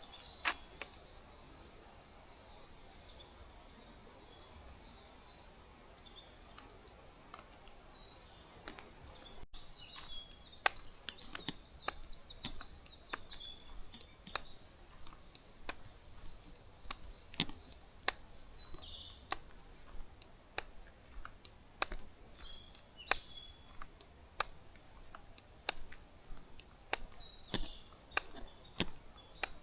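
Birds chirping with short high trills. About a third of the way in, irregular sharp crackles and clicks begin and keep coming.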